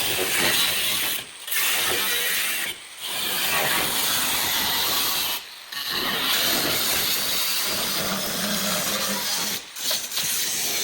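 Workshop hand-tool noise on car body parts: mechanical clicking and scraping, cut into several short clips with abrupt breaks between them.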